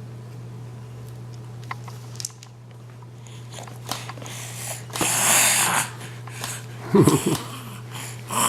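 Steady low room hum with a few small clicks, a brief rustle about five seconds in, and a short voiced sound about seven seconds in.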